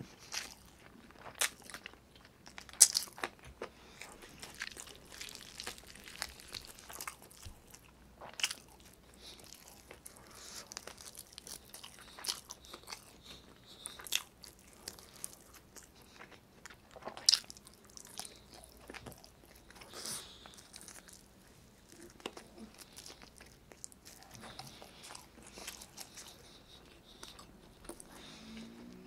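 Close-miked chewing of chicken adobo and rice: wet mouth clicks and lip smacks scattered irregularly, with two sharper, louder smacks about three seconds in and about seventeen seconds in.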